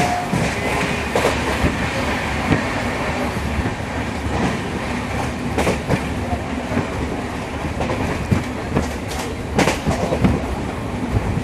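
Express passenger train running along the track, heard from aboard: a steady rumble with irregular clicks and knocks of the wheels over rail joints.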